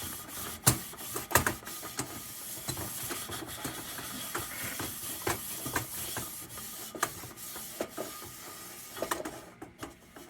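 Worn steel wool scrubbing the tin of a 1945 Dietz No. 2 Blizzard lantern, a steady scratchy rubbing. Scattered sharp crackles run through it: shortwave radio static from distant lightning.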